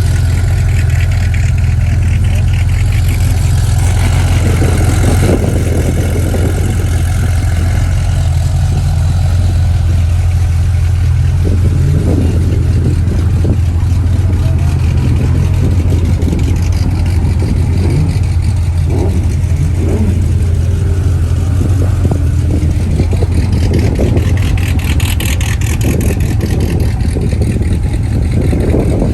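Car engines running, with some revving, over a heavy steady low rumble.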